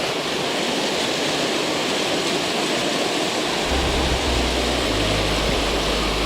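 Waterfall and stream water rushing steadily with a full hiss. About four seconds in, low steady bass tones come in underneath.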